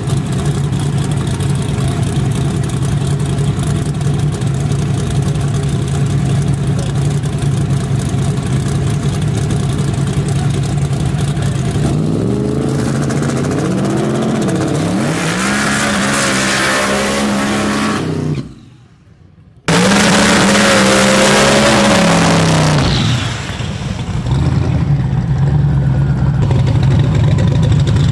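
Turbocharged drag-race car engines idling roughly at the starting line, then revving up and down in blips. The sound drops out for about a second midway, then the engines settle back to idle.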